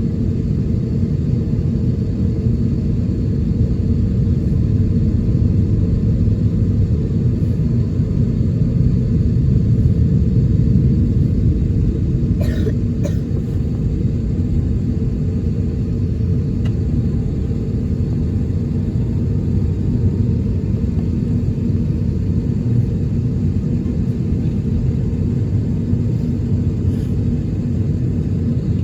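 Steady low rumble inside the cabin of an Airbus A321neo as it taxis on its engines, with a couple of brief sharp sounds about halfway through.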